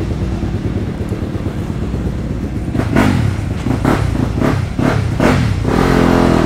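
Motocross dirt bike engine running, with a quick series of rev blips midway, about two or three a second, then a steadier held note near the end.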